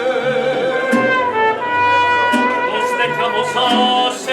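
Mariachi band playing, with brass carrying the melody over a stepping bass line.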